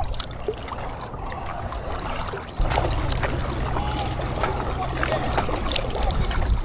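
Water trickling and splashing around a kayak being paddled, with small drips and splashes scattered through. About two and a half seconds in, a low rumble of wind buffeting the microphone comes in suddenly and stays.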